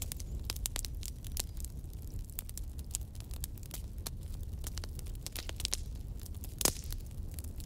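Wood fire crackling: many irregular sharp pops and snaps over a steady low rumble, with one louder pop near the end.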